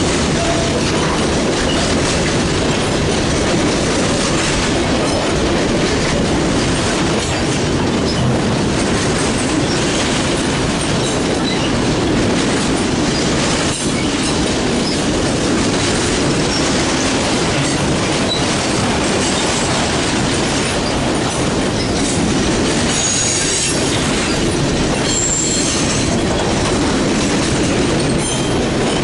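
Mixed freight train rolling past with a steady rumble and clatter of steel wheels on the rails. Brief high-pitched wheel squeals come in about two-thirds of the way through.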